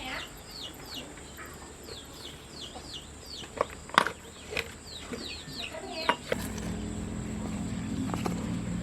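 Birds or chicks chirping in quick, repeated falling calls, with a few sharp knocks in the middle, the loudest about four seconds in. A little past two-thirds through, a steady low mechanical hum starts up and continues.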